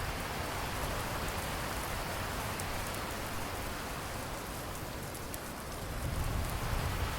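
Steady rain falling and pattering on surfaces, with a low rumble of thunder starting to swell near the end.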